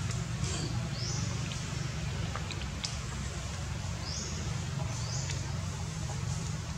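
Outdoor ambience: a steady low rumble with short, high bird chirps now and then.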